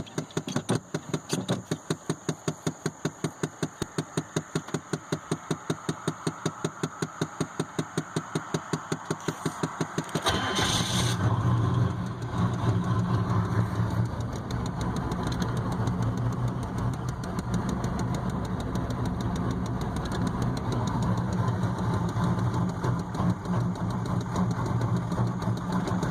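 A 1993 GMC 3500's 6.5 L turbo-diesel V8 cranks on the starter at a steady pace of about four compression pulses a second. About ten seconds in it catches and runs on at a rough idle. This is a cold start on an engine the owner says barely runs and idles rough.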